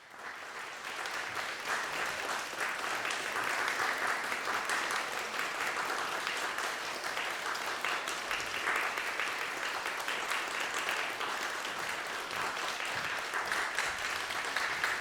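Audience applauding steadily after the music ends, many hands clapping at once.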